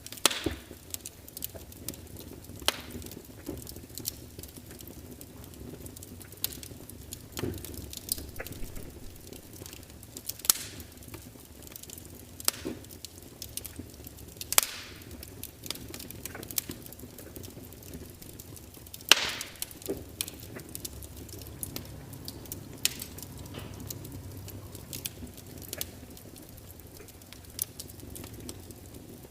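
Log fire burning with a low steady hiss and irregular sharp crackles and pops from the wood, a few of them loud snaps, the loudest about two-thirds of the way through.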